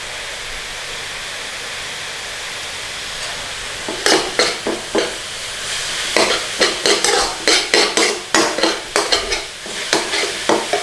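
Grated onion and garlic-ginger paste sizzling in oil in a pan. From about four seconds in, a utensil stirring and scraping the pan in quick repeated strokes over the sizzle.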